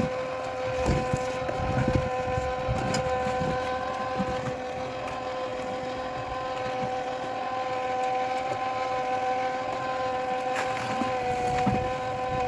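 A machine motor running steadily at a constant speed, giving a level whine, with a few short knocks of work on the site about one, two and three seconds in and again near the end.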